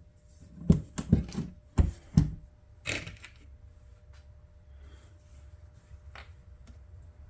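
Small hardware being handled on the chronometer case while the screws go back in: about six sharp clicks and knocks in the first three seconds, then a couple of faint ticks near the end.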